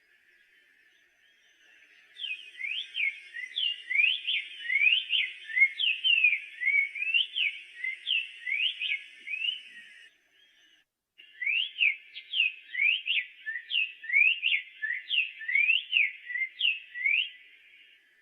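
Black-faced tanager (sanhaço-de-coleira) singing: a fast, jumbled run of clear whistled notes that slur up and down, in two long phrases with a brief pause between them.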